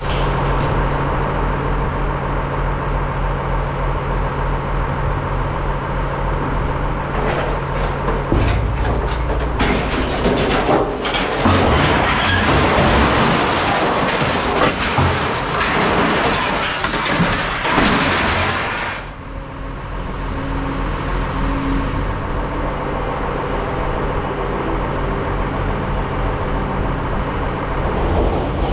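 Heavy scrap-yard machine's engine running steadily. From about ten to nineteen seconds in there is a louder, noisy stretch full of knocks and clatter as the machine works scrap metal.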